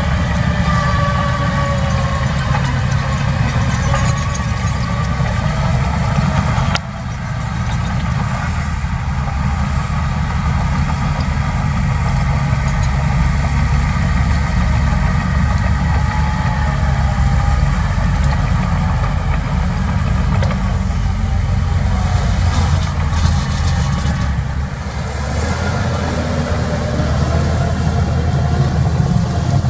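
Heavy diesel engines of earth-moving machinery running steadily at a low pitch, with a sudden drop in level about seven seconds in.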